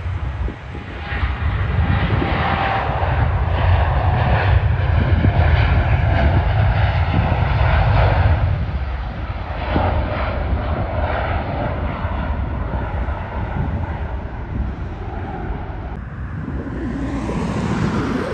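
Jet airliner's engines going past, a loud rumble that is strongest about four to eight seconds in and then slowly fades.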